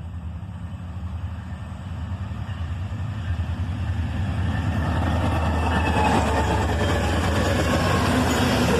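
Diesel freight train approaching, its low engine drone and rolling wheel-on-rail noise growing steadily louder.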